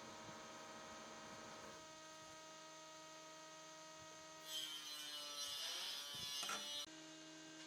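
A steady low hum, with a burst of rasping noise about four and a half seconds in that lasts about two seconds, typical of a hand tool working wood.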